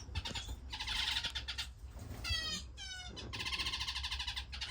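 Caged finches calling in a bird room. There are two long, rapid buzzy chatters, one about a second in and one near the end, with a short run of falling notes between them.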